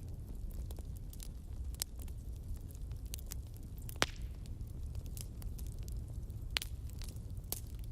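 Bonfire crackling: irregular sharp pops and snaps over a steady low rumble of burning, the loudest pop about four seconds in.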